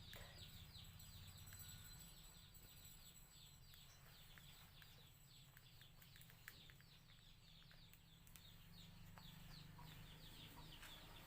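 Near silence with faint, rapid high chirping of birds in the background over a low hum, and a few soft clicks.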